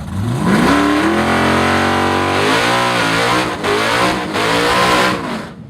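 Car engine revving hard: its pitch climbs quickly in the first second, holds high with some wavering for a few seconds, then drops and fades away just before the end.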